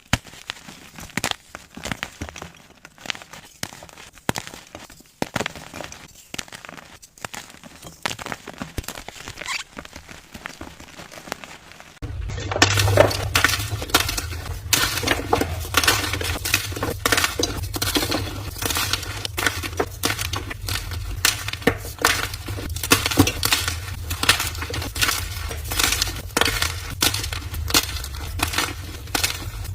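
Blocks of gym chalk being crushed and crumbled by hand: dense, crisp crunching and crackling. About 12 s in, it switches to a louder recording of the same kind of crushing, with a low hum underneath.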